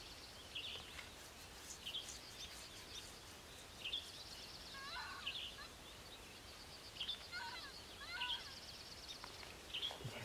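Faint songbird calls over a quiet background hiss: short high chirps about once a second and brief high trills, with a few lower slurred notes around the middle.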